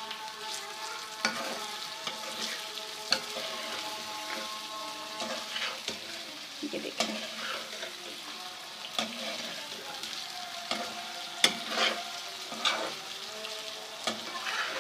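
Chicken livers and hearts frying in ghee with onion paste, sizzling steadily, while a spoon stirs them gently and knocks against the pan every second or two.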